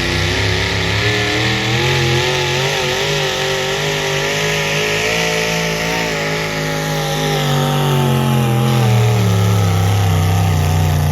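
A pull vehicle's engine running hard at high revs, its pitch wavering, then dropping away about seven to nine seconds in as it comes off the throttle.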